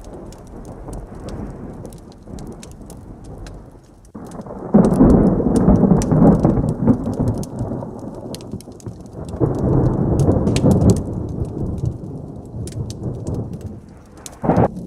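Thunder rumbling over steady heavy rain. It swells sharply about four seconds in and again a few seconds later, with a short loud crack near the end, and scattered sharp ticks of drops or crackles run throughout.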